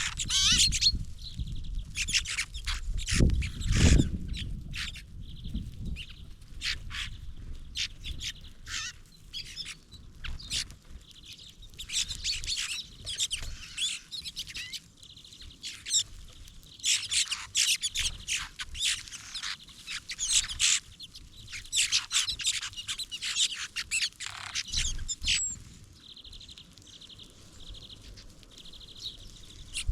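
Small songbirds at a feeder chirping and calling, with many short, high notes and several quick rattling call series. About three to four seconds in, a brief low thudding rumble is the loudest sound.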